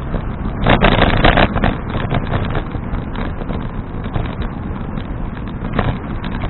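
Wind rushing over an action camera's microphone on a moving bicycle, with a steady low road rumble. About a second in there is a louder burst of rattling and crackling, and a short one near the end.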